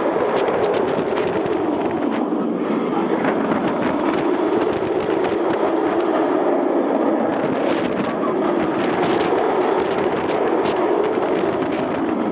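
Steady rush of wind over a head-mounted camera's microphone, together with the noise of a B&M inverted roller coaster train in motion, on board the ride.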